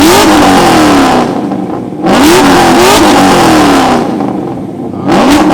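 2001 Pontiac Firebird's engine revved hard through its exhaust in neutral, three loud blips, each rising in pitch and falling back.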